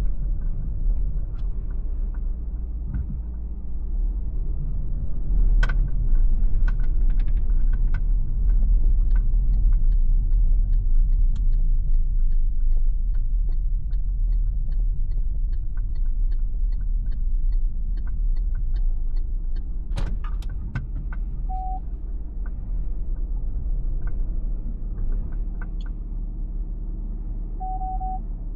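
Steady low road and drivetrain rumble inside the cabin of a moving MG ZS Hybrid+ hybrid SUV. A few sharp clicks, a regular ticking about twice a second for roughly ten seconds in the middle, and two short beeps near the end.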